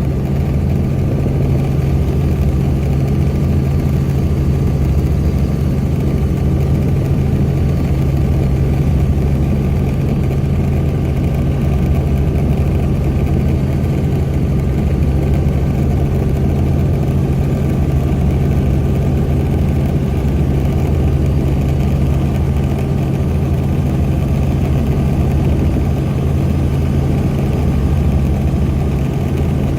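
Helicopter in flight heard from the cabin: a loud, steady engine and rotor drone with a low hum that does not change.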